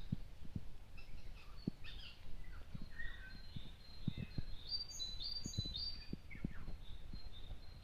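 Small songbirds chirping and twittering in short calls, busiest about five seconds in, over a run of soft low thumps.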